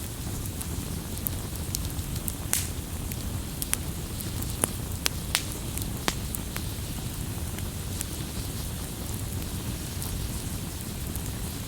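Campfire burning: a steady low rumble of flames with sharp crackles and pops from the burning wood, a cluster of louder pops about two to six seconds in.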